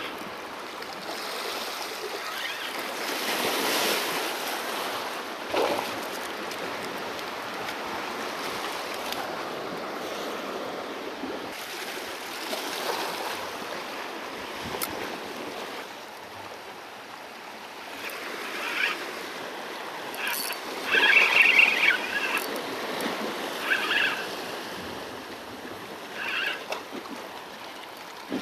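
Sea waves washing against shoreline rocks, swelling a few seconds in. About two-thirds of the way in, a run of short, higher-pitched sounds rises above the wash and is the loudest thing heard.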